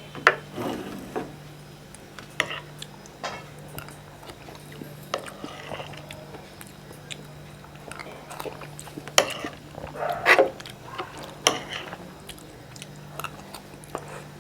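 Eating sounds from soft, wet sweets: irregular sharp clicks of a spoon or dish, with chewing and slurping, over a steady low hum.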